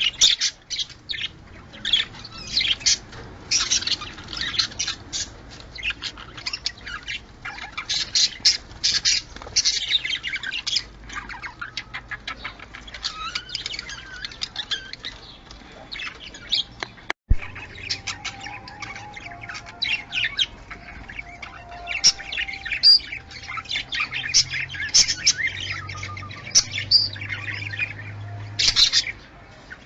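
Budgerigars chattering in rapid, sharp chirps and squawks: the warbling courtship chatter of breeding budgies. A single sharp click about halfway through.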